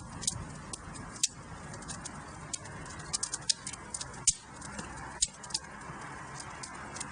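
Wood fire crackling in a fireplace: a steady hiss with irregular sharp pops and snaps, the loudest about a second in and again about four seconds in.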